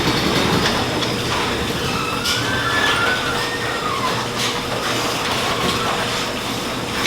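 Steady road and engine noise of a car driving, with a few faint squeaks about two to four seconds in.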